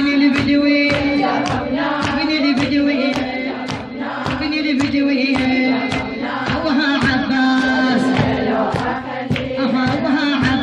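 A mullaya, a woman leading a religious lament chant, sings with a group of voices chanting along on a held note. Sharp hand slaps keep a steady beat of about two a second under the singing.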